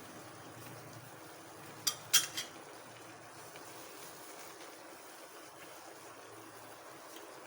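Three quick clinks of a kitchen utensil against a cooking pot about two seconds in, over faint steady room hum.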